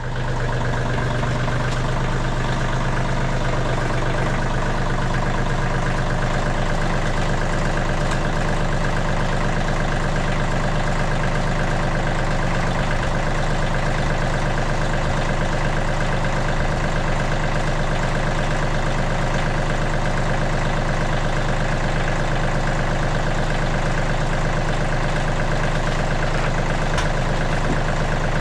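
The MechMaxx SM32 bandsaw sawmill's engine running steadily at an even speed. It comes in suddenly at full level.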